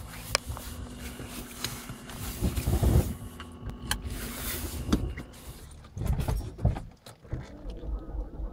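Clicks, knocks and low thuds inside a car, with a faint steady low hum underneath.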